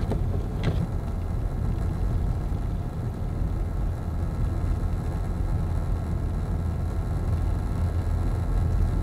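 Steady low rumble of a car's engine and tyres on a snowy, icy road, heard from inside the cabin, with one light click about a second in.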